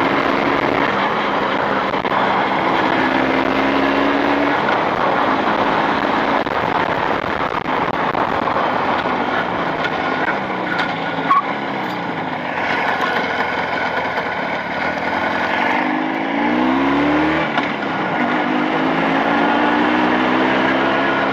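Motorcycle engine running under load while riding, in break-in on new cylinders, with steady wind and road noise. The engine note shifts during the ride and climbs about three-quarters of the way through as it accelerates.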